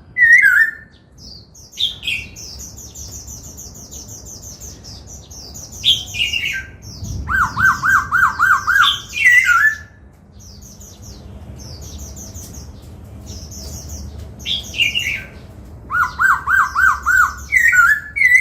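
Black-throated laughingthrush singing a loud, varied song: runs of quick rising-and-falling notes, high thin chattering, and down-slurred whistles, phrase after phrase with short pauses between.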